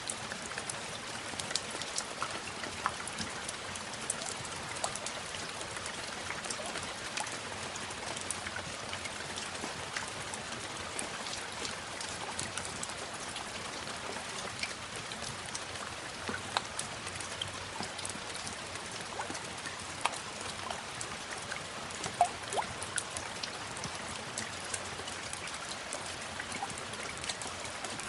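Steady rain, with many separate drops ticking irregularly over an even hiss.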